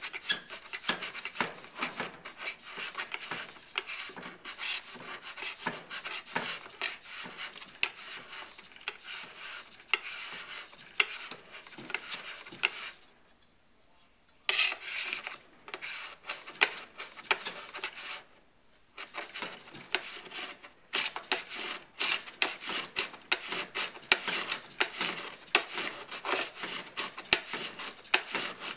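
Metal scraper shaving hardened P-Tex base repairs level on a snowboard base, in quick repeated scraping strokes with two short pauses about halfway through.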